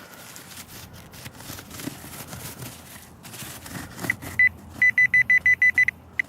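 Soft scraping and rustling of soil being dug and probed. Then a Garrett Pro Pointer pinpointer starts beeping about four seconds in: one short beep, then a rapid string of high, even beeps at about seven a second, which signals that its tip is right on the buried coin.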